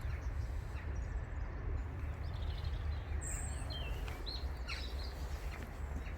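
Steady low rumble of wind on the microphone, with small birds chirping and whistling a few times in the middle.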